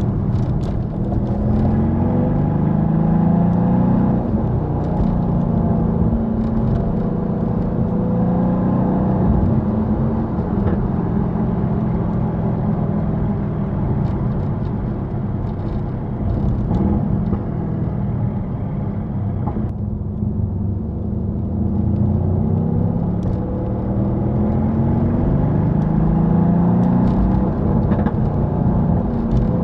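Mercedes-AMG C63 S (W205) twin-turbo V8 running on its stock exhaust while driving, over steady road noise. The engine note rises in pitch a few times as the car accelerates, near the start and again near the end.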